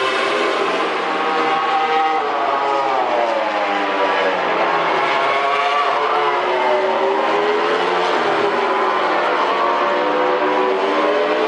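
Aprilia RS-GP MotoGP bike's V4 engine at racing speed, its pitch rising and falling several times as it accelerates, changes gear and slows for corners.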